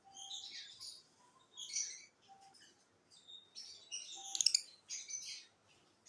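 Small pet parrots chirping and chattering in quick high bursts, loudest about four and a half seconds in.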